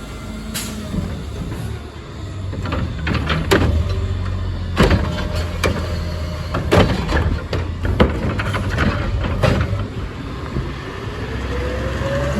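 Peterbilt 520 garbage truck idling while its Curotto Can automated arm handles a trash cart, with about five loud metal bangs and clanks. A rising whine near the end fits the engine speeding up to drive the hydraulics.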